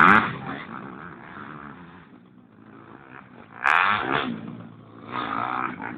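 Motocross dirt bike engine revving, its pitch rising and falling with the throttle, with loud surges at the start and about four seconds in and a quieter stretch between.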